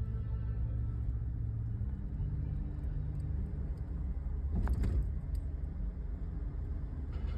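Steady low rumble of a motor vehicle running, with one brief knock about four and a half seconds in.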